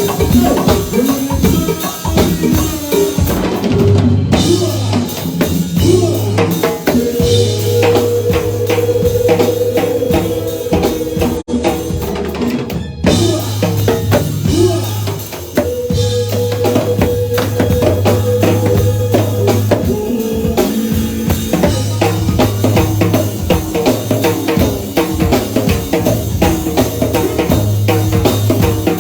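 Live band music, with a drum kit keeping a steady beat under a bass line and sustained held notes.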